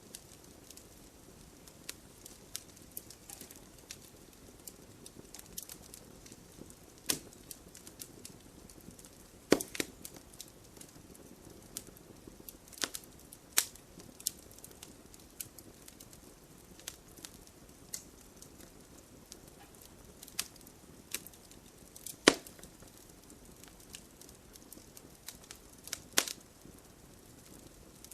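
Wood fire crackling: irregular sharp pops and snaps over a faint low hiss, with a few louder pops standing out.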